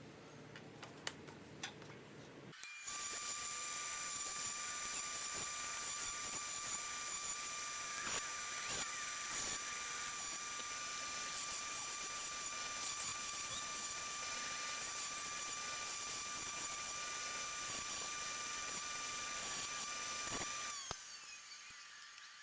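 Small high-speed electric power tool running steadily with a high-pitched whine, switched on about three seconds in and cut off about two seconds before the end, after a few light ticks of handling.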